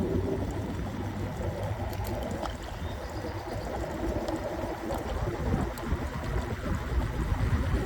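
Wind rumble and road noise during a ride on an electric scooter: an uneven, steady rushing without a clear engine note.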